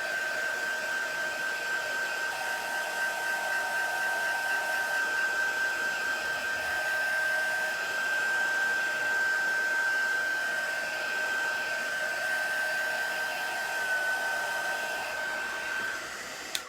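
Hand-held hair dryer blowing steadily with a constant whine, drying freshly applied chalk paste. It switches off abruptly at the very end.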